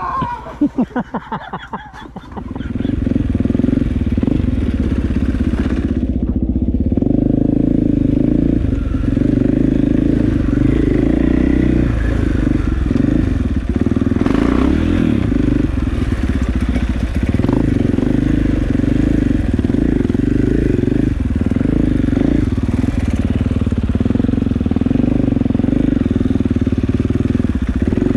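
KTM dirt bike engine. It gives a couple of seconds of separate uneven pulses, then picks up about two and a half seconds in and runs loud and steady under riding, rising and falling a little with the throttle.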